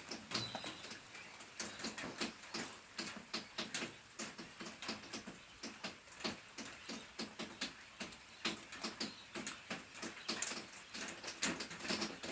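Rain falling, with drops pattering in irregular sharp ticks on a hard surface.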